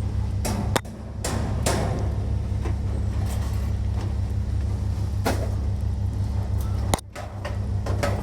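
Pieces of scrap metal being thrown and dropped while unloading, giving a handful of sharp clanks; the loudest come near the start and about seven seconds in. A steady low engine hum runs underneath.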